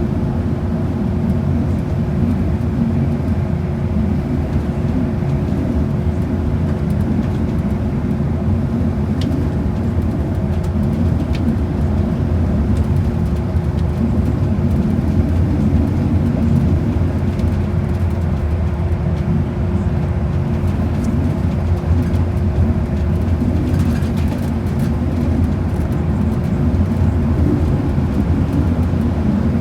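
Bus cabin noise while under way: a steady low engine and road rumble with a constant hum throughout.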